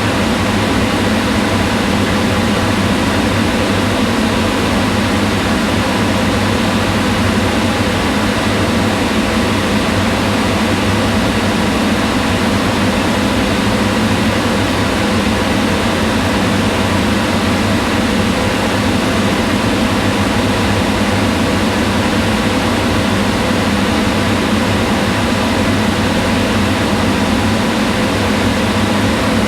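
Kitchen range hood exhaust fan running steadily: an even rush of moving air with a low hum.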